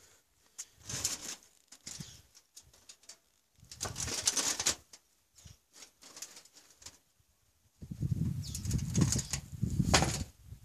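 Wild pigeons' wings flapping in three bursts: a short one about a second in, another about four seconds in, and a longer, louder one near the end.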